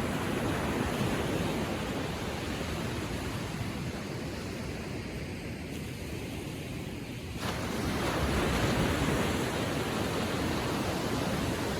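Gentle ocean waves washing on the shore: a steady hiss of surf that eases for a few seconds, then swells again as a new wave breaks about seven seconds in.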